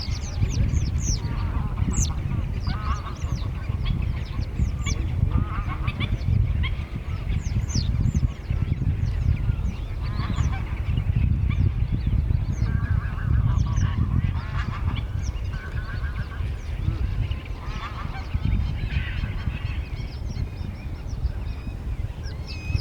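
A flock of geese honking continuously, with many short, high, falling bird calls mixed in, over a steady low rumble.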